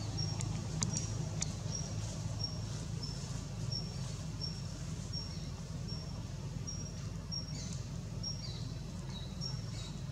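A bird calling in a steady series of short, high-pitched notes, about two a second, some dipping lower in pitch near the end, over a low steady rumble.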